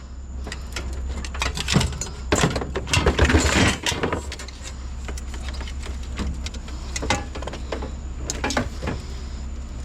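Knocks and clatter of car batteries being lifted and set down, loudest in a cluster a few seconds in, with single knocks later, over a steady low hum.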